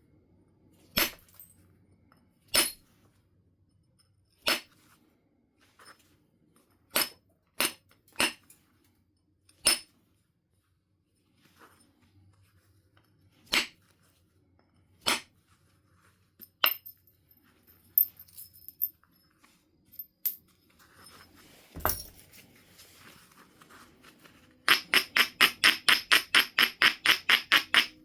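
Percussion flaking of flint: sharp, single billet strikes on the stone every second or two, some with a high clinking ring, as flakes are knocked off a biface. Near the end comes a quick, even run of about fifteen short strokes, about four or five a second.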